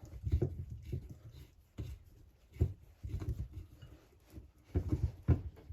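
Scattered light knocks and clicks of hand tools and metal parts as crankcase bolts are undone on a Husqvarna 346XP chainsaw.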